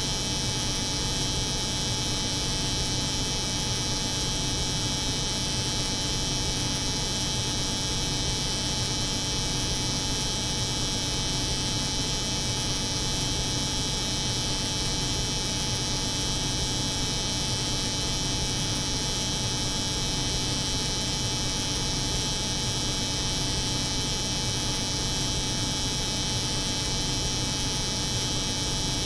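Steady layered noise: the hum of a cold room mixed with the buzz of an electric hair clipper running. It holds at an even level, with a high hiss and a low hum, and does not change.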